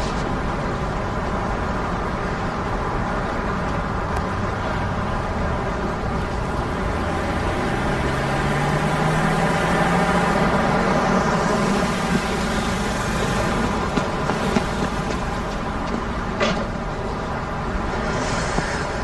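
A motor vehicle running steadily, its engine note rising in pitch about eight seconds in, with a couple of short clicks near the end.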